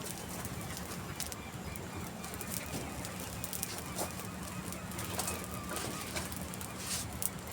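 Birds calling in dry scrub over scattered sharp clicks and crackles.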